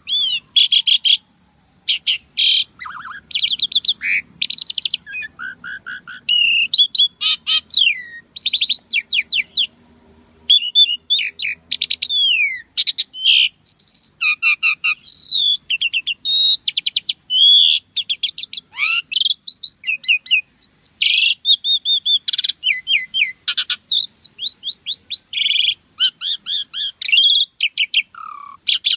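Asian pied starling (jalak suren) singing a long, busy song: a non-stop run of varied whistles, rising and falling glides and fast chattering notes.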